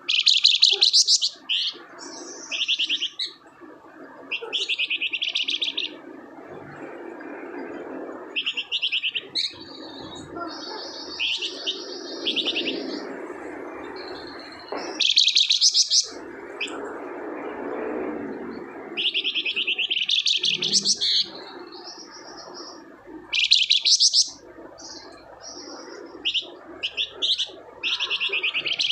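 A songbird known to Indonesian bird-keepers as the flamboyan singing in full song: loud bursts of rapid, high chirping trills every second or two, over a steady rushing background noise.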